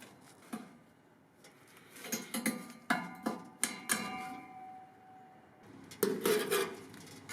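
Metal tools and parts clinking and knocking at irregular moments, a few strikes leaving a short metallic ring, with a cluster of knocks near the end.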